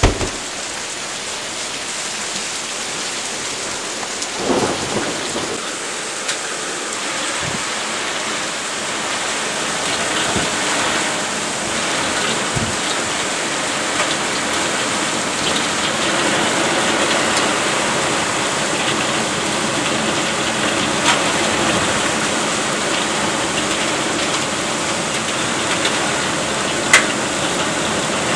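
Heavy rain pouring down steadily in a thunderstorm, with a few dull thumps and one sharp crack near the end.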